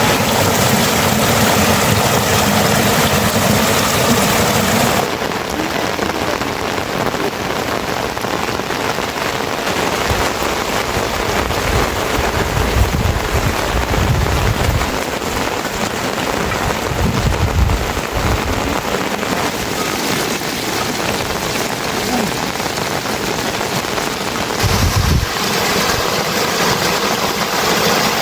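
Steady rain falling. The sound changes abruptly about five seconds in and again near the end, with a few low rumbles along the way.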